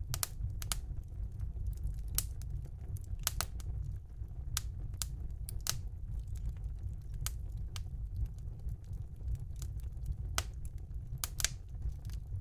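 Wood fire burning in a house fireplace, crackling with sharp, irregular pops, some in quick pairs, over a low steady rumble.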